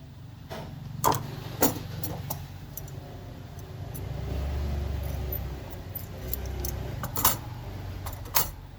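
A handful of sharp metallic clicks and clinks, as parts are handled, over a low hum that swells for a second or two in the middle.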